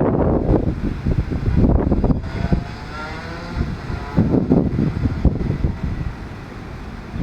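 Wind buffeting the microphone in uneven gusts, with a faint wavering pitched sound about three seconds in.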